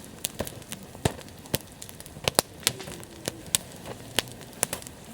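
Wood campfire crackling, with irregular sharp pops and snaps, some of them loud.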